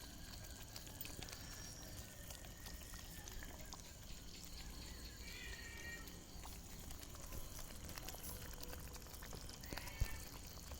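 Ghee roast masala cooking faintly in the pan with ghee just added, a soft steady sizzle with a few light clicks of a spoon or pan. A brief faint call sounds about five seconds in, and there is a sharper click near the end.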